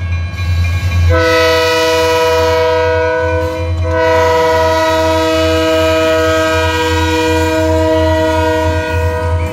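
Diesel locomotive's multi-chime air horn sounding two long blasts, the second held about five seconds, over a steady low rumble.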